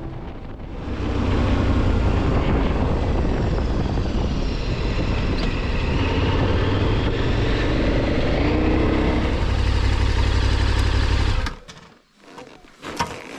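Motorcycle running steadily at road speed, a low engine drone under rushing wind noise, cut off suddenly near the end and followed by a few faint clicks.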